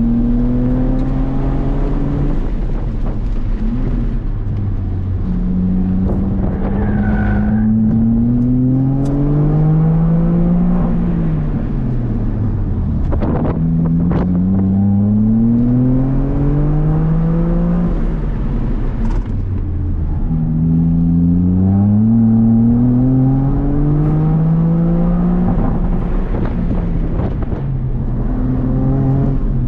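A Toyota GR Corolla's turbocharged 1.6-litre three-cylinder engine, heard from inside the cabin, driven hard through an autocross run. Its pitch rises under full throttle several times and falls back in between as the driver lifts and brakes for the cones.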